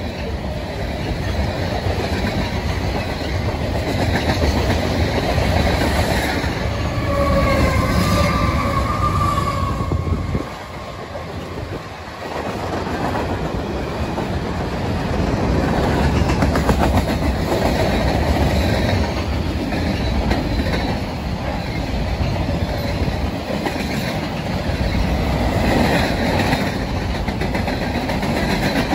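Long freight train of tank cars and boxcars rolling past, its steel wheels clicking over the rail joints in a steady rumble. A brief high wheel squeal comes about seven seconds in, and the noise dips for a moment just after ten seconds.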